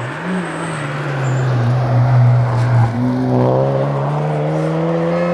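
Suzuki Swift Sport 1.4 rally car's engine under hard acceleration. It holds a steady note, drops briefly about three seconds in as it shifts gear, then rises steadily as it revs up.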